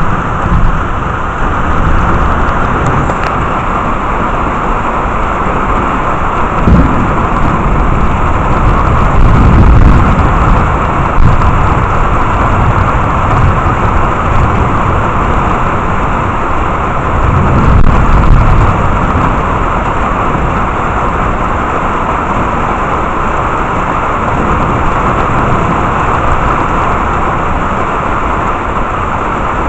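Steady downpour of heavy rain, with deep low rumbles swelling up twice, about a third of the way in and again past halfway.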